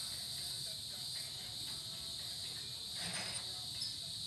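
Steady, high-pitched chorus of insects droning outdoors in summer heat.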